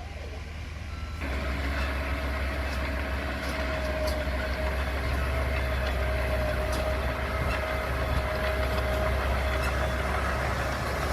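Diesel engine of a small earthmoving machine running, getting louder about a second in, with a steady high whine held over it.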